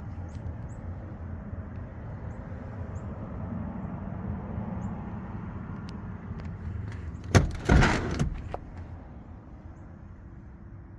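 The 2002 Acura RSX Type-S's 2.0-litre DOHC i-VTEC four-cylinder engine idling steadily. About seven seconds in, a car door shuts: a sharp click, then a short clunk, the loudest sound here.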